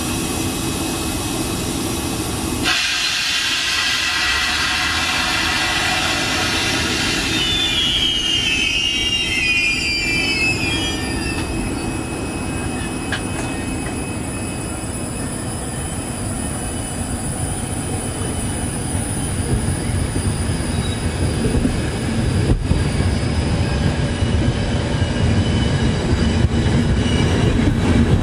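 Intercity train pulling out of the station, a control car leading and an E402B electric locomotive pushing from the rear. The wheels give a few high squeals that slide down in pitch about eight to eleven seconds in. The rolling rumble of the coaches on the rails then grows steadily louder toward the end as the train gathers speed.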